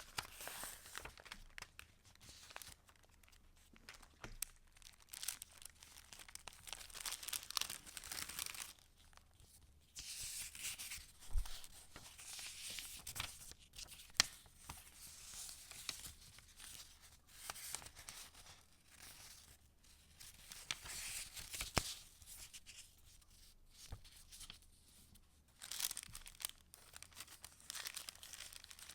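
Paper pages of a handmade junk journal being turned and handled: rustling and crinkling in irregular bursts, with a few sharp ticks.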